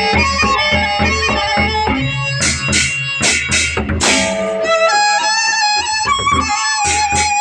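Gendang beleq ensemble playing: large drums beating, then cymbals clashing in a quick run of strokes, under a held bamboo flute melody.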